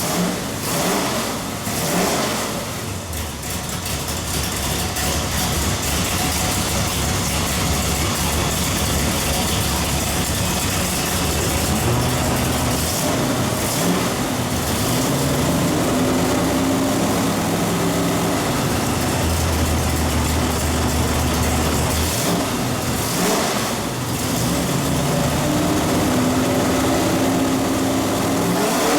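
632 cubic-inch big-block V8 marine engine running on a dyno. Its speed steps up and holds a little past the middle, drops briefly about three quarters through, then climbs again near the end.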